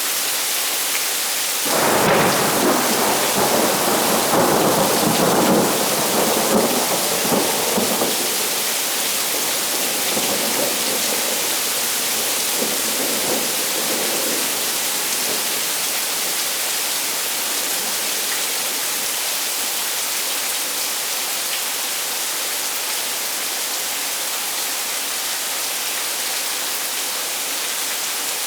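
Thunderstorm: a steady hiss of heavy rain, with a clap of thunder breaking about two seconds in and rumbling on, loudest for the first several seconds and fading away about halfway through.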